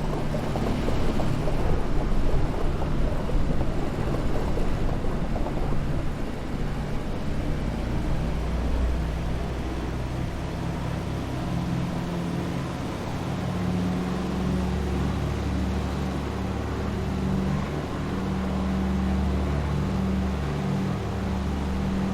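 A DC-3's piston radial engines heard from inside the aircraft. A rough, noisy rumble fills the first several seconds, then settles into a steadier engine drone with low, even hum tones that rise and fall slightly in level.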